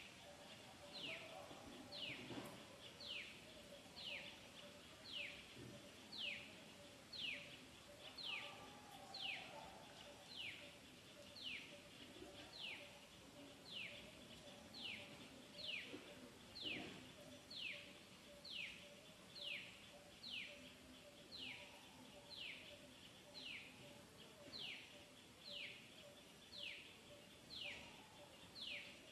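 A bird calling over and over, a short falling whistle repeated about once a second, against a faint steady hum.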